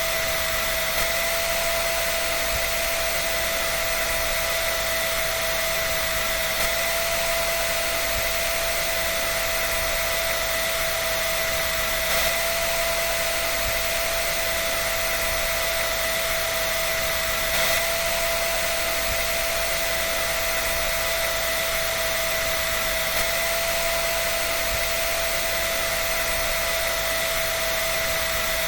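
An electric dryer running steadily: an even, airy hiss with a constant whine, unchanging, with no rhythm or knocks.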